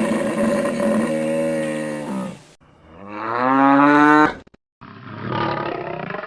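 Cattle mooing: three long calls in a row, the second rising and then falling in pitch.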